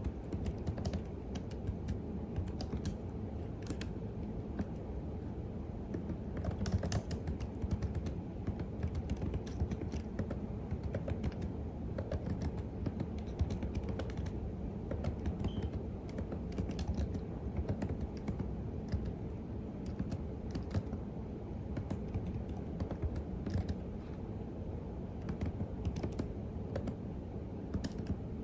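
Continuous typing on a computer keyboard: a steady, irregular patter of key presses with an occasional sharper, louder keystroke.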